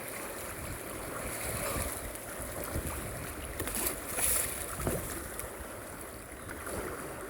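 Fast floodwater rushing and splashing around a kayak running a rapid, with a louder splash about four seconds in.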